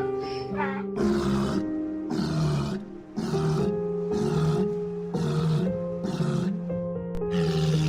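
Background music with a large animal giving a series of rough grunting calls, repeated roughly once or twice a second.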